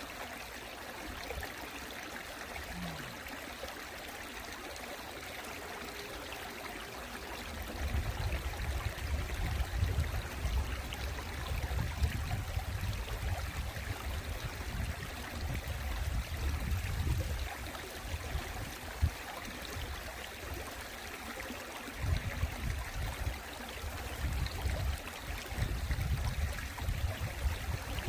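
Valley stream flowing, a steady rush of water, with bouts of low rumble starting about eight seconds in.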